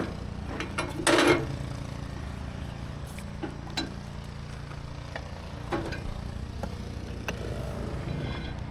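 Pressure washer's gas engine running steadily at idle, with a brief louder rush about a second in and a few scattered clicks.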